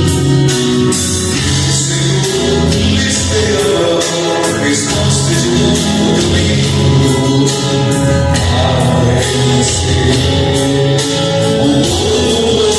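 Christian worship song: sung voices over a band, with held notes and a steady beat of cymbal or drum hits.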